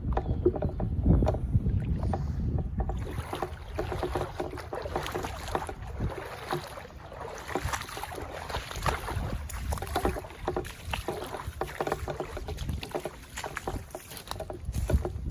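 Floodwater sloshing and splashing in a stream of small irregular splashes, with wind rumbling on the microphone for the first few seconds.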